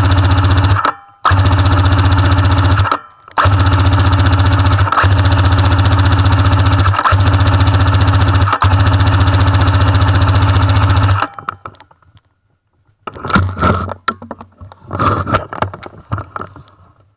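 Airsoft M60 machine gun firing long full-auto bursts, a fast, steady rattle. There are three bursts with short pauses between them, the last lasting about eight seconds. About two seconds after it stops, a few seconds of quieter, scattered knocks and clatter follow.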